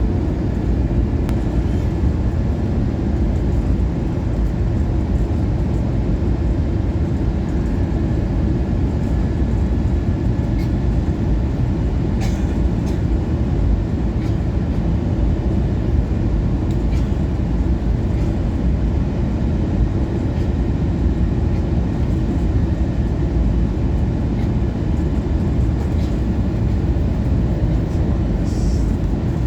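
Steady rumble of an Airbus A321neo cabin on final approach: engine and airflow noise heard inside the cabin from a front-row window seat, with a couple of faint clicks.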